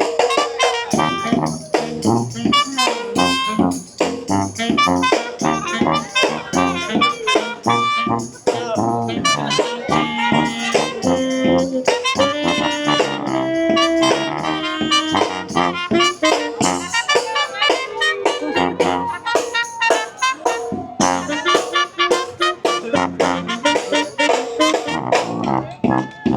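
Brass band with saxophone, trumpet and trombone playing jazz to a steady beat.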